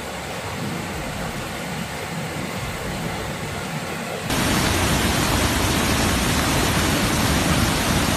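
Steady rushing noise of floodwater, turning abruptly louder and harsher about four seconds in.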